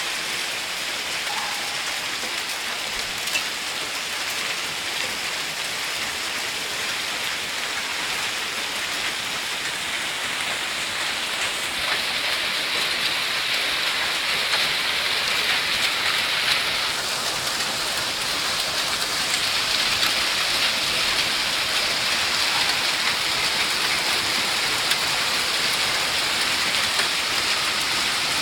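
Heavy rain pouring down in a steady hiss, growing a little heavier about twelve seconds in.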